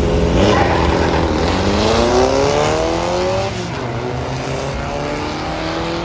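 Car engine accelerating hard down a drag strip, its pitch rising steadily for about two seconds before the sound drops back.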